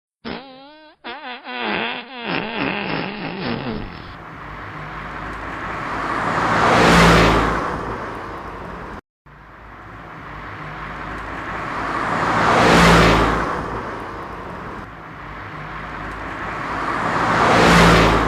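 A motor vehicle passing by three times, its engine noise swelling to a loud peak and fading each time. It is preceded by a short wobbling, warbling tone.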